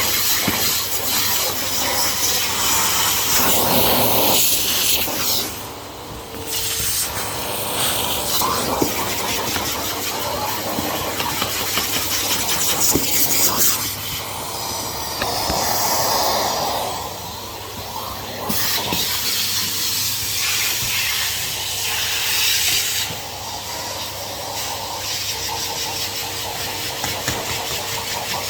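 Henry HVR200 620 W cylinder vacuum cleaner running, a steady airflow hiss with a faint motor whine that swells and dips in level every few seconds.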